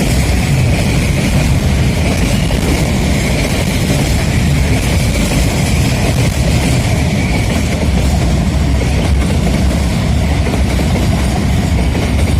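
Freight train hauled by a D9E diesel locomotive running steadily and loudly, the wagons rolling on the rails.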